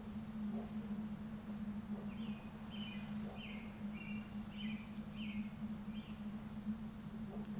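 A small songbird sings a run of about seven short, high notes about two seconds in, over a steady low hum and outdoor ambience.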